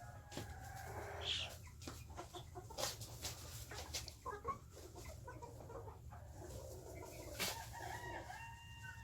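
A flock of young White Face Spanish chickens clucking and calling, with a few sharp taps, and one long, drawn-out pitched call near the end.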